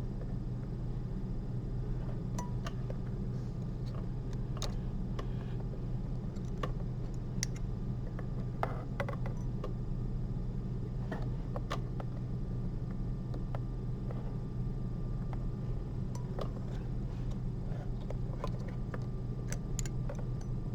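Steady low hum of room ventilation, with scattered light clicks and ticks of metal surgical instruments (needle holder and forceps) handling a suture.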